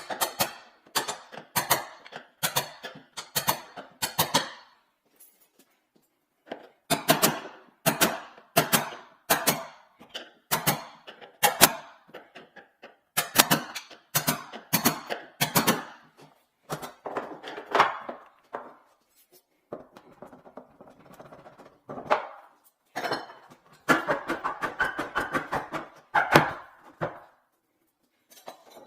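Repeated sharp knocks and taps in runs of a few a second, with short pauses, then a denser stretch of clatter near the end: hand work on the old glued-in kitchen sink and its countertop.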